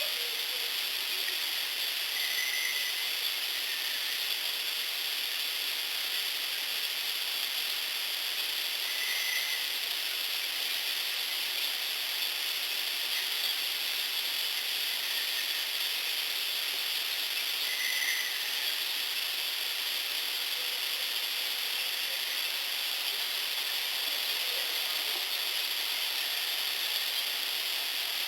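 Steady high hiss of an outdoor night field recording, with a faint short chirp about every seven to nine seconds.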